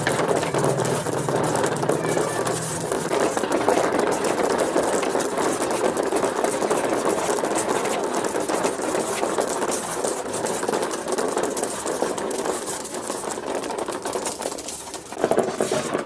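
Many marbles rolling and clattering along plastic marble-run ramps and obstacles, a dense, continuous rattle of small clicks, with a low hum underneath that stops about three seconds in.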